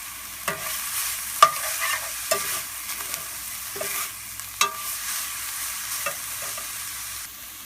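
Ground chicken with garlic and shallots sizzling in a skillet over medium heat, while a utensil stirs it, scraping and clacking against the pan several times.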